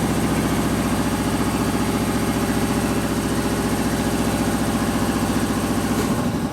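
A motor running with a steady, even pulse that stops abruptly about six seconds in.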